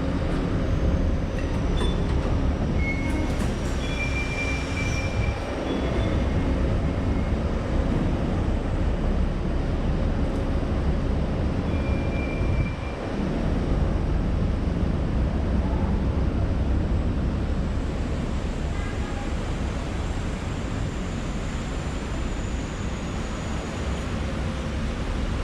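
Steady low rumble of a Star Ferry's engine running under way, with a brief dip in loudness twice.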